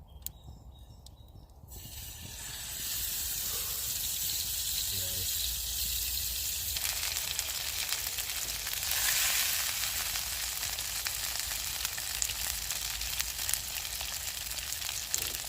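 Venison burger frying in a pan. The sizzle builds up about two seconds in, then holds steady.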